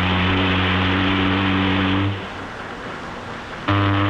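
Low steady drone from a police patrol boat, a pitched hum over hiss, that drops out about two seconds in and cuts back in abruptly near the end.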